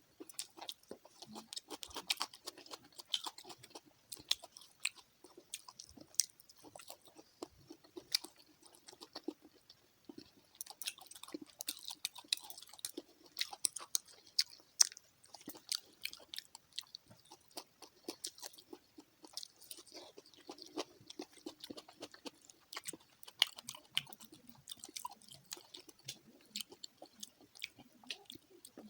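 Close-up chewing and crunching of fried fish, with many small sharp crunches at an irregular pace.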